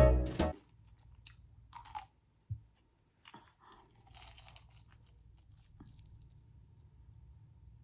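Piano intro music cuts off about half a second in, then a handful of crisp bites and crunches of fried street food, scattered over the next few seconds before it goes quiet.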